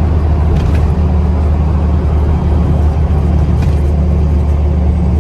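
Dodge Ram 3500's Cummins diesel engine running with a loud, steady drone at constant speed.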